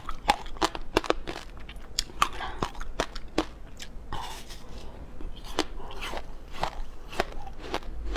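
Close-miked chewing of frozen passion fruit: crisp, irregular crunches and crackles of icy pulp and seeds between the teeth, several each second.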